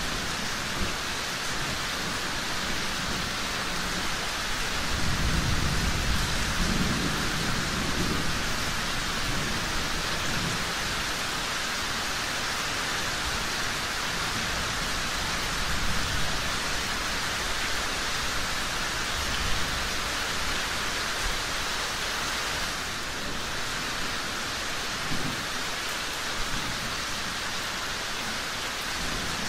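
Steady heavy rain, with a low roll of thunder swelling about five seconds in and fading a few seconds later. A few faint sharp pops come through the rain now and then.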